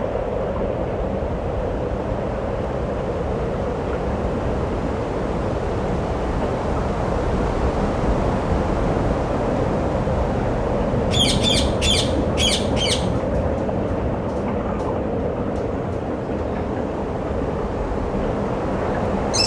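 A bird chirping: a quick run of about five high, sharp chirps about eleven seconds in, over steady low background noise.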